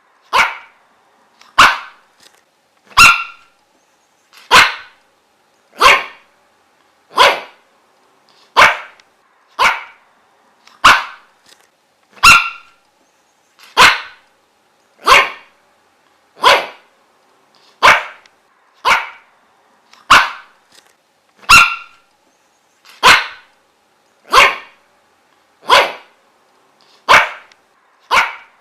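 A dog barking one bark at a time at a steady, even pace, about one short bark every second and a half.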